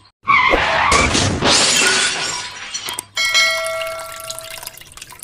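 Loud crashing, shattering noise in two bursts, then a ringing of several steady tones that fades out after about a second and a half.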